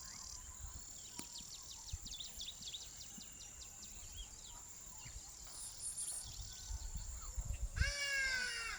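Insects keep up a steady high-pitched whine while small birds chirp repeatedly. Near the end an ibis gives one loud, harsh call lasting just under a second.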